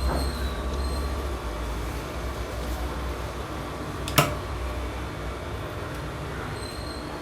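Sewing machine running steadily with a low rumble, and one sharp click about four seconds in.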